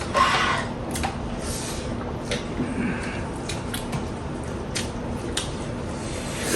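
Close eating sounds: chewing and wet mouth clicks, with a short hiss near the start and a brief faint murmur near the middle.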